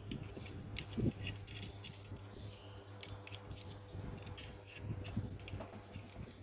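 Small scattered clicks and light metallic taps of small parts being handled, over a steady low hum.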